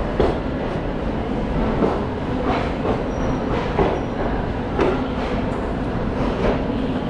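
Passenger train rolling slowly into a station, its wheels knocking irregularly over rail joints and points over a steady running rumble.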